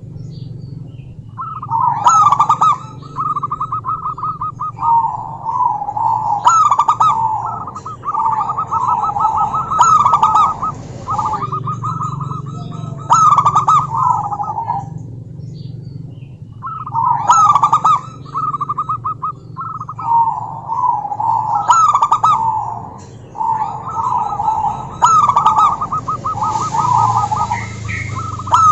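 Zebra dove calling: phrase after phrase of rapid staccato coos, with short pauses between phrases, over a steady low hum.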